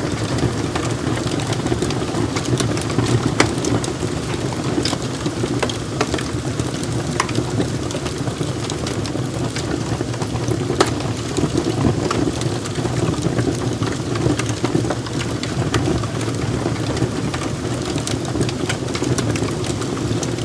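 Wood fire burning in a fireplace: a steady low rushing of flames with frequent sharp crackles and pops from the logs.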